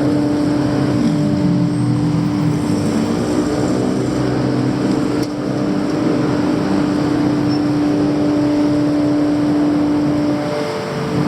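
Street traffic with a motor vehicle's engine running close by, a steady hum over the general traffic noise.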